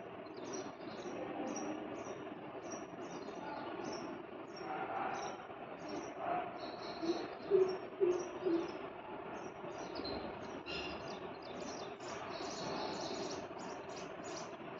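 Sparrows chirping: a steady run of short, high chirps, two or three a second, with a few dull low knocks about halfway through.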